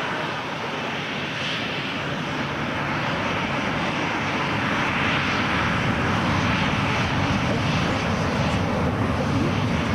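Airliner engines running, a steady rushing noise that grows slowly louder as the aircraft comes nearer.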